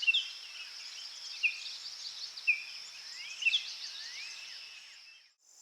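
Outdoor nature ambience: birds calling in short chirps about once a second, with a few sliding whistled notes, over a steady high insect buzz. It fades out near the end.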